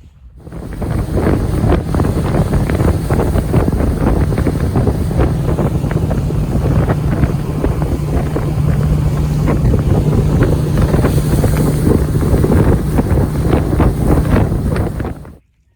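A 60-horsepower outboard motor pushing a boat under way, running at a steady pitch, with heavy wind buffeting the microphone. It starts abruptly about half a second in and cuts off suddenly near the end.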